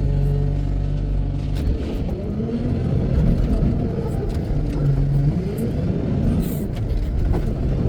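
Heavy-equipment diesel engine running, held steady at first, then working under changing load from about two seconds in, its pitch rising and falling as the revs change, with a few knocks.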